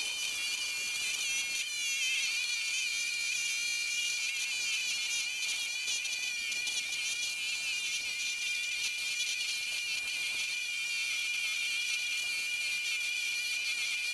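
Diamond trim saw blade grinding through an agate: a steady high-pitched whine with a wavering, warbling scrape above it.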